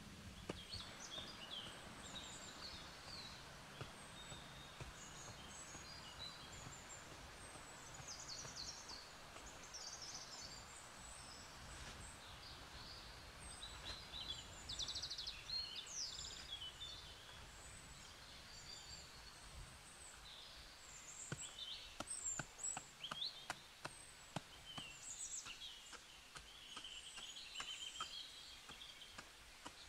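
Many forest birds chirping and trilling in short, high calls over a low steady background hum of the forest. About two-thirds of the way in, a scatter of sharp light clicks and knocks joins them.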